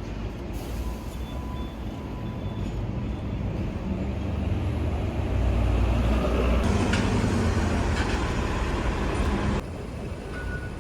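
A vehicle running with a steady low rumble. It grows louder about halfway through and drops off suddenly near the end.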